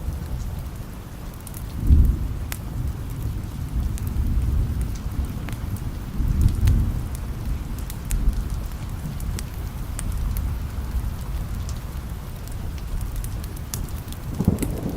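Steady rain with low rolling thunder, the rumble swelling about two seconds in and again around six to seven seconds, with scattered sharp ticks on top.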